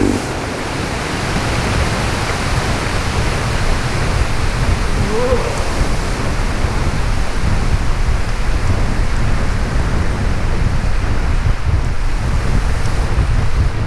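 Wind rushing over the microphone of a camera riding along on a moving bike: a steady, loud rumbling noise.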